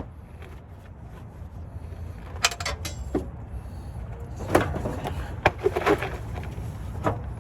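Scattered clinks and knocks of hand tools against metal parts while a transmission is being unbolted from under a vehicle, some ringing briefly, over a steady low rumble. The knocks come in a cluster about halfway through.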